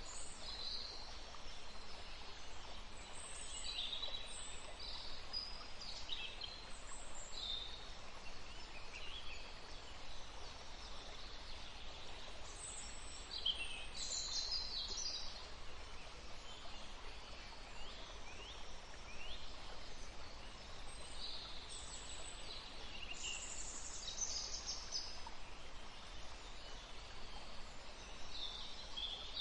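Forest stream flowing steadily, with small birds chirping and singing in short, scattered high calls throughout.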